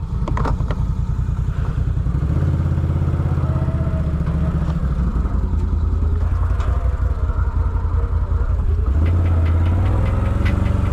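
Off-road vehicle engine running steadily at low revs. Its pitch steps up about two seconds in and again near nine seconds, with a few light knocks.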